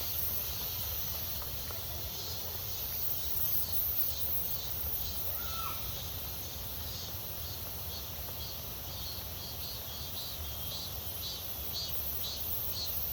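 Cicadas singing in a forest: a steady high-pitched hiss, joined about halfway through by a pulsing call that repeats about twice a second. A single short falling whistle sounds around six seconds in.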